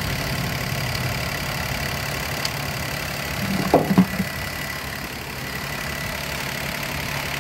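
Daihatsu Mira's small three-cylinder engine idling steadily, with a couple of short clicks from work on the engine bay about four seconds in.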